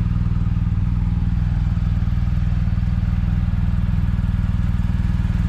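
Adventure-touring motorcycle engine idling steadily: a low, even, pulsing rumble.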